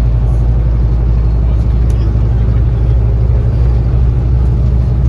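Scania K360CA articulated bus's diesel engine running with road noise, heard from inside the passenger cabin as a loud, steady low rumble.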